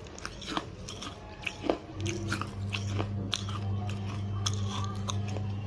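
Mouth chewing crunchy clay and chalk paste: scattered sharp crunches and small clicks. A low steady hum comes in about two seconds in.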